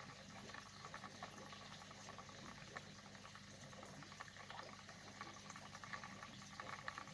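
Near silence: faint crackling background noise with a low steady hum.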